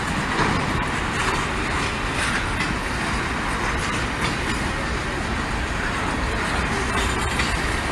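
Norfolk Southern freight train rolling past, its wheels running steadily over the rails.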